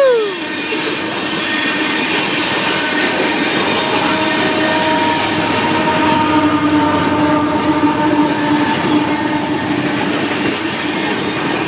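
Canadian Pacific train passing close by, a continuous loud rumble of the train with the clatter of wheels on the rails and a few faint steady tones running under it.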